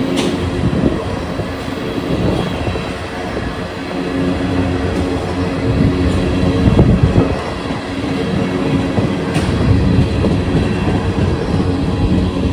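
Train passing: a diesel locomotive engine drones steadily over the noise of wheels on the rails, with a few sharp clicks.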